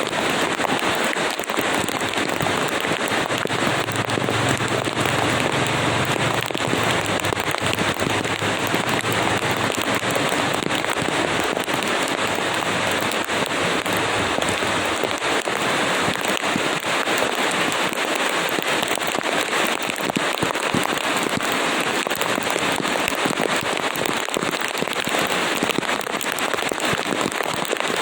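Steady rain, a dense crackling patter of drops striking a surface.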